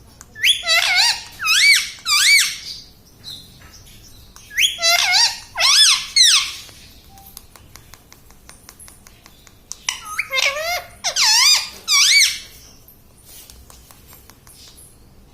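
Indian ringneck parrot vocalizing in three bouts of loud, high, wavering squawks, with short pauses between them.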